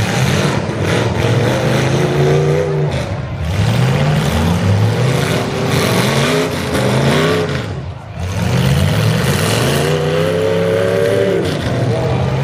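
Demolition derby car engines revving hard, their pitch climbing and falling over and over as the cars spin and shove in the mud, several engines at once. The revving eases briefly about two-thirds of the way through, then picks up again.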